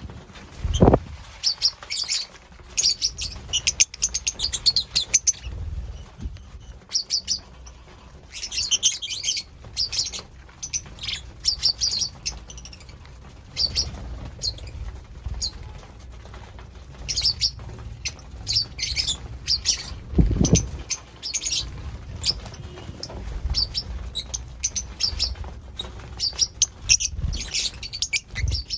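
Lovebirds chirping in rapid clusters of short, high-pitched notes that come and go, with two brief low thumps, one about a second in and one about twenty seconds in.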